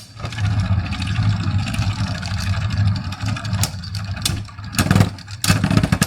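Beyblade tops spinning in a stadium, a steady whirring hum broken by a few sharp clacks as they collide, about three times in the second half.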